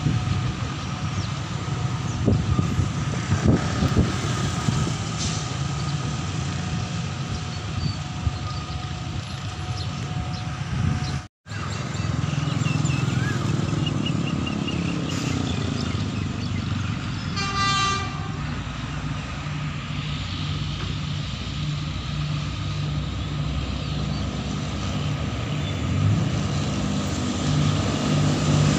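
Distant diesel locomotive approaching, a steady low engine rumble under outdoor noise, with a short horn sound about two-thirds of the way through. The sound cuts out for a moment about a third of the way in.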